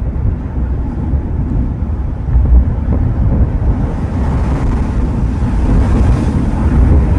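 Ocean surf breaking and washing up the shore, with wind rumbling on the microphone; the wash swells louder about four seconds in.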